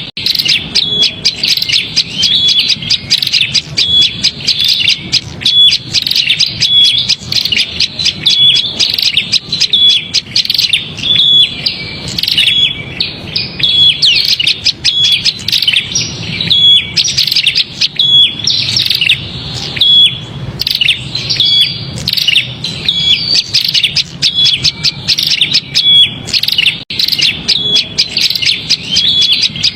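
Prinia (prenjak) calling non-stop in the busy, agitated 'ribut' style used as a lure call to draw small birds in. Dense rapid chirps run over a short clear note that repeats about once a second.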